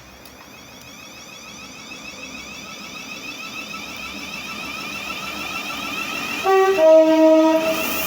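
Train approaching at speed, its rail noise growing steadily louder, then sounding a two-tone horn about six and a half seconds in: a short higher note followed by a longer lower one, the loudest thing heard.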